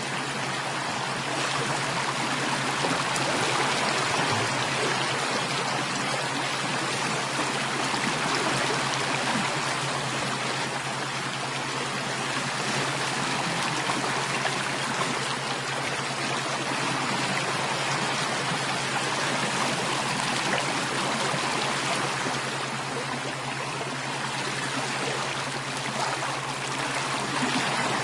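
Running water of a stream, a steady even rushing and trickling that holds without a break.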